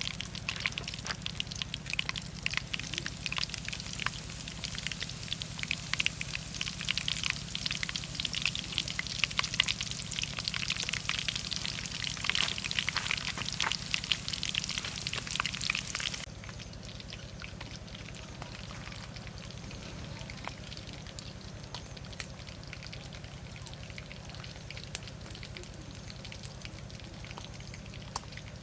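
Fish frying in hot oil, crackling and spitting densely, then dropping suddenly to a quieter, sparser sizzle a little over halfway through. A steady low hum runs underneath.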